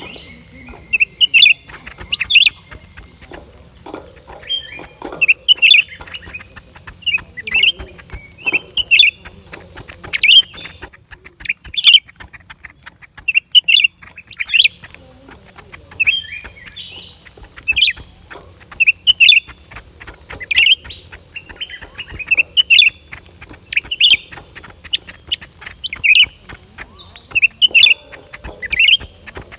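Blue-winged leafbird calling: short, sharp, chirping phrases repeated about every second or so.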